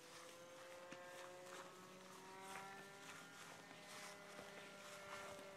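Faint, steady buzz of a radio-controlled P-51's glow-fuel model engine in flight, its pitch drifting slowly up and then falling away near the end.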